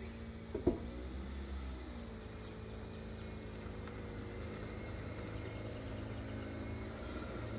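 A vehicle engine running steadily, a low hum with a slowly drifting pitch. A single short thump comes under a second in.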